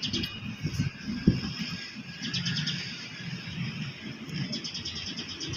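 Small birds chirping in short runs of quick repeated chirps, over a low rumbling background, with a single sharp knock about a second in.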